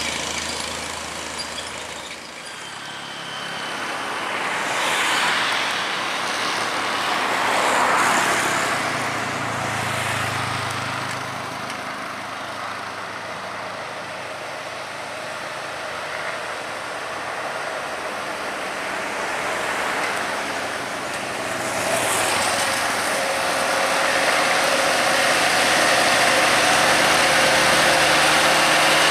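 Heavy trucks climbing a highway incline, engines pulling under load as they pass one after another, with road noise between them. A louder engine comes up about three quarters of the way through and stays steady.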